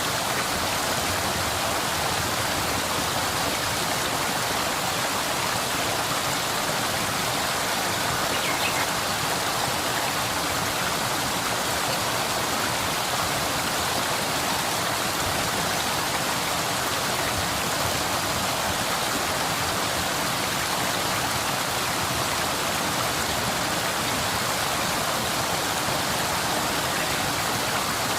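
Waterfall on a forest stream, water rushing steadily with an even hiss and no change in level.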